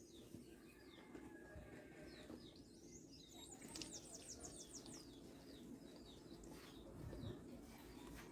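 Faint bird chirps in the background, with a quick trill of about eight high, falling chirps around the middle, over a low steady hum.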